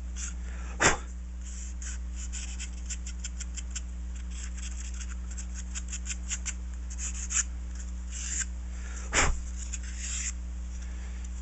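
Light rubbing and scratching of hands handling foam RC airplane parts, with many small ticks and two sharper taps, one about a second in and one near the end. A steady low hum runs underneath.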